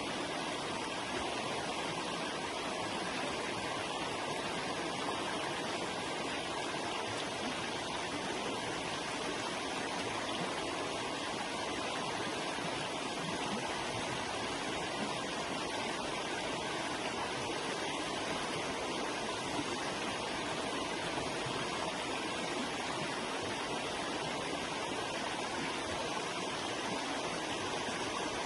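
Forest river flowing, a steady, even rush of water over rocks with no change in level.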